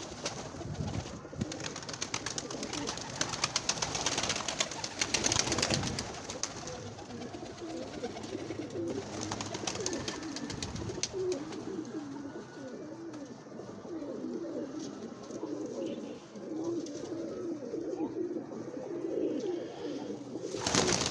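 Several domestic pigeons cooing at once, overlapping low, wavering coos that carry on throughout. During the first several seconds a dense rustling, crackling noise sits over the cooing.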